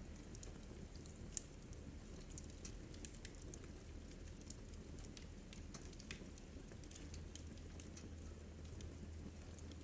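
Wood fire in a fireplace crackling: scattered small pops and snaps over a low steady rumble, with one sharper pop about a second and a half in.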